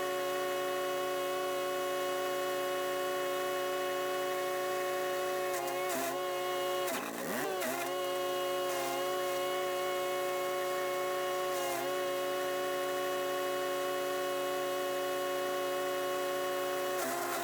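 Chipease D1500E wood chipper's 420cc four-stroke engine running at a steady speed, its pitch sagging briefly several times under load as material is fed in, the deepest dip about seven seconds in.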